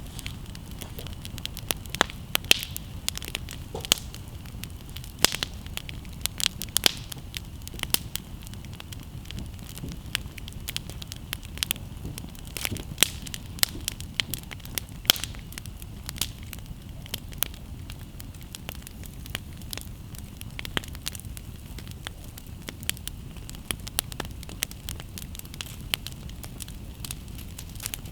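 Wood campfire crackling and popping: irregular sharp snaps, several a second, over a steady low rush.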